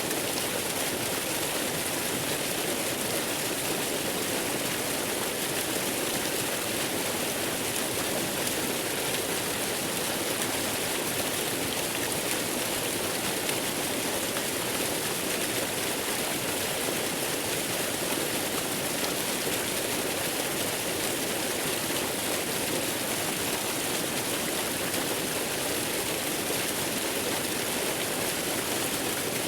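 Steady waterfall white-noise ambience: an even rushing hiss, brightest in the treble and thin in the bass, without any change.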